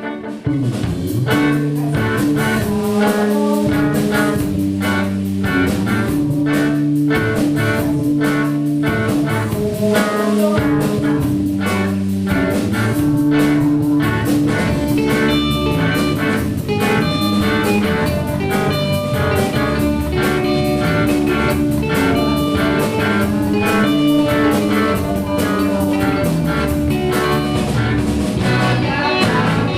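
Band music with guitar and drum kit playing a steady beat, coming in at full volume about half a second in.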